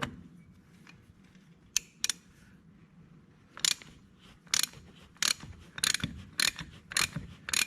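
Ratchet wrench clicking as it is worked on a plug of the Yanmar excavator's final drive. Two single clicks near two seconds in, then a steady run of strokes about one every two-thirds of a second.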